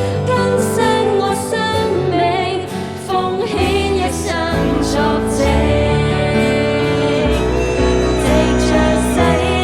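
Live band music from a Cantonese Christian worship song: a singer's voice, with vibrato on held notes, over keyboard or guitar accompaniment and a bass line stepping between notes.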